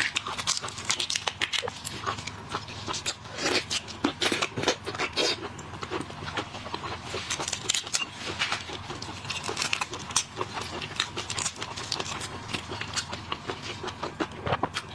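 Close-miked eating sounds of boiled seafood: a steady stream of quick, wet chewing, lip-smacking and sucking clicks.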